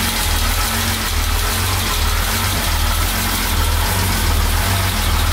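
1975 Jaguar XJ6's straight-six engine idling steadily just after a cold start.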